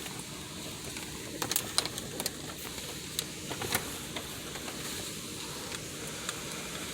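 Gusting wind with dry leaves blowing and ticking against the car: a steady rushing with scattered light clicks.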